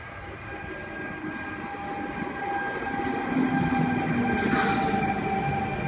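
Sydney Trains C set, a double-deck electric train, arriving at the platform: its rumble grows steadily louder as it draws alongside, with a steady high-pitched tone over it and a burst of hiss about four and a half seconds in.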